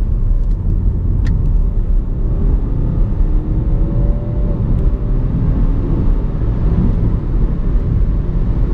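BMW X1 xDrive25d's four-cylinder turbodiesel accelerating hard: a loud, deep rumble with a faint engine note that climbs in pitch and breaks off about four and a half seconds in, as at a gear change.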